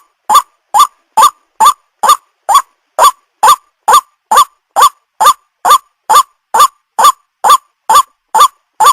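White-breasted waterhen (ruak-ruak) calling: a steady series of short, hooked notes, about two a second, evenly spaced.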